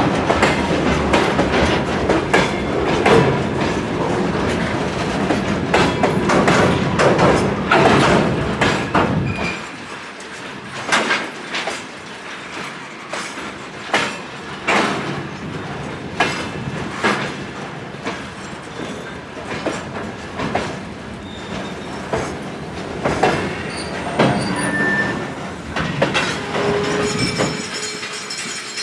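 A train hauled by a GE C36-7i diesel locomotive passing on the rails: a heavy low rumble that drops away about nine seconds in, then the wagon wheels clacking over rail joints in irregular strokes, with brief wheel squeals near the end.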